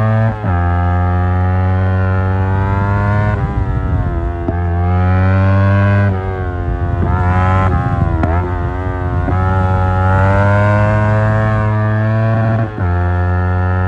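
Yamaha R25 parallel-twin engine breathing through an Akrapovic exhaust, ridden hard. Its pitch climbs and drops back sharply several times as it pulls through the revs.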